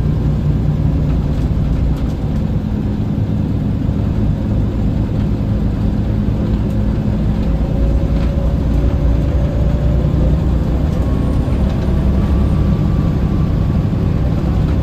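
Scania L94UB bus engine running steadily under way, a low heavy drone with road noise, and a faint whine that rises slightly in the middle.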